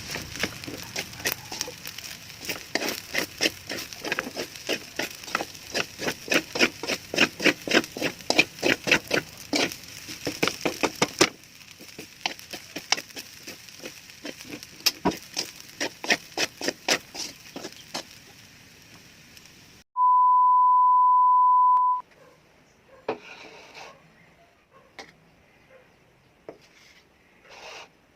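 Knife chopping on a wooden cutting board: quick, even strokes about three a second for some eleven seconds, then slower, quieter cuts. About twenty seconds in, a steady high beep sounds for two seconds.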